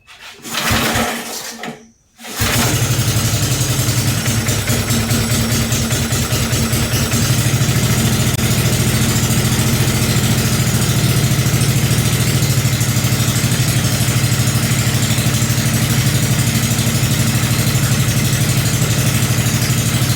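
Briggs & Stratton 5 hp single-cylinder engine being started: a brief crank in the first two seconds, then it catches and runs steadily through its newly built exhaust header.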